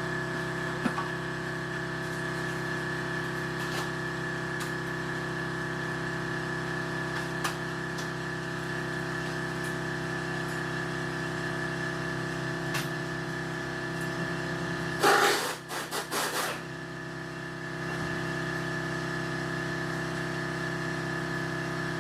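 A machine running with a steady, unchanging hum, switched on just before and off just after, with a short louder rasping burst about fifteen seconds in.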